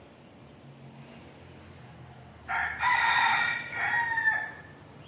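Rooster crowing once: a loud call of about two seconds in several parts, ending on a drawn-out note that falls slightly.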